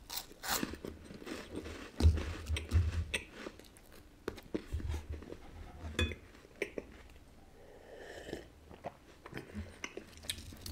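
Close-up chewing of a crisp wafer biscuit, bitten off at the start, with crunching crackles and soft low thumps.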